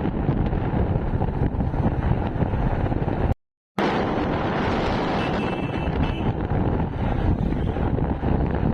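Wind buffeting the microphone of a moving motorcycle, a steady low rushing noise, with road and engine noise mixed in. The sound drops out completely for a split second about three and a half seconds in.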